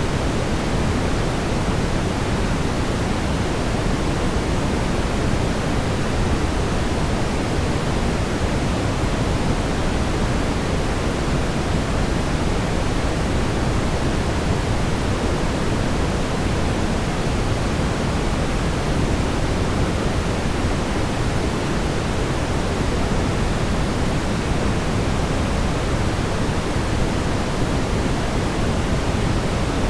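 Steady brown noise: an even, unchanging hiss weighted toward the low end, a deep rumble with no tones or events.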